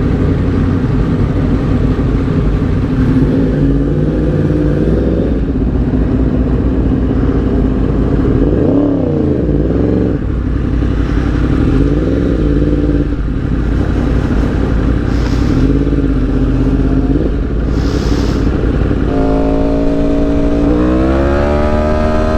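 Road vehicle engine running at a steady pitch, with a couple of short rises and falls in revs around the middle. Near the end it climbs steadily in pitch as it accelerates.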